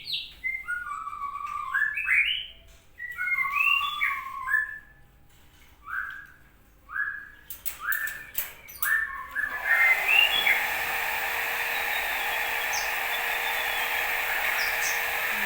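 A bird chirping in a quick series of short, sliding calls. About ten seconds in, the chirps give way to a steady hiss.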